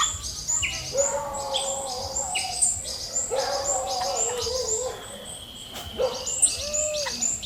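Birds calling: quick high chirps repeat several times a second throughout. About a second in, and again at about three and a half seconds, lower wavering calls are held for a second or more, and from about five seconds a long, thin, high steady whistle joins in.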